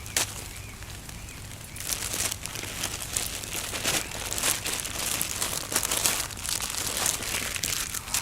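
Crinkly wrapping being handled and crumpled: scattered crinkles at first, then a dense run of crinkling from about two seconds in.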